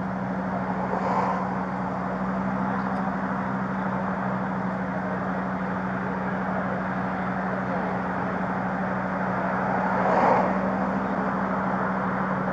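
Steady vehicle engine and road noise with a constant low hum, swelling briefly about a second in and again near the ten-second mark.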